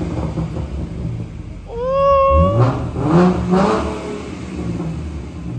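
Car engine revved hard several times, its pitch climbing and dropping with each blip, with exhaust popping. A steady held tone sounds for about a second, about two seconds in.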